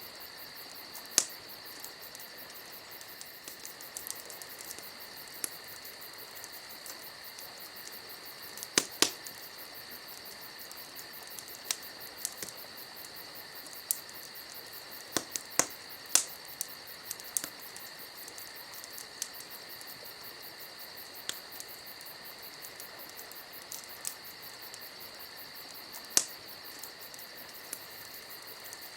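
Campfire crackling, with sharp pops scattered irregularly, a cluster of them in the middle, over a steady high chirring of insects.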